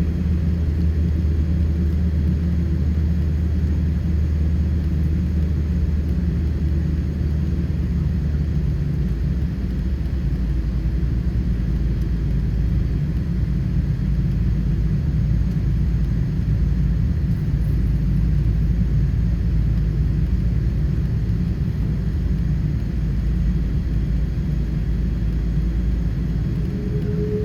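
Boeing 777-300 jet cabin noise: the steady low rumble of the twin engines and airflow, heard from inside the passenger cabin. A faint tone rises near the end.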